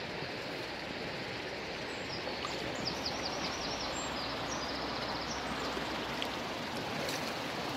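Fast-flowing river water rushing steadily. A small bird sings a quick run of high chirps from about two seconds in.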